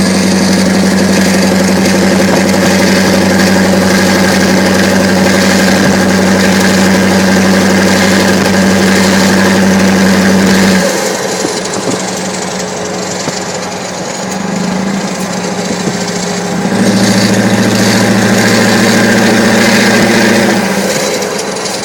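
Scania V8 diesel engine with an open, unsilenced exhaust, running loudly and steadily. About eleven seconds in it falls back to a quieter note, picks up again about five seconds later, and eases off once more near the end.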